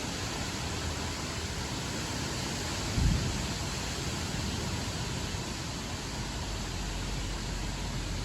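Steady hiss of rain during a thunderstorm, with one brief low thump about three seconds in.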